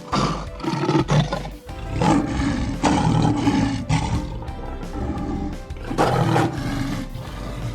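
A tiger roaring and growling several times, over background music.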